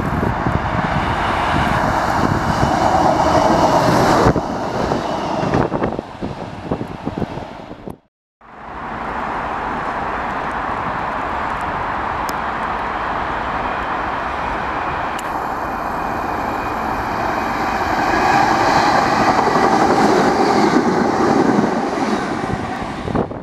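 Trains passing through a station. First a Class 950 diesel track-recording unit runs through. After an abrupt cut, a second passenger train approaches and runs past close by, its wheel and rail noise loudest near the end.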